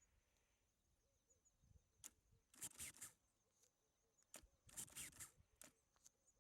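Near silence, broken by two short, faint bursts of rustling about two and a half and five seconds in, and a few soft clicks.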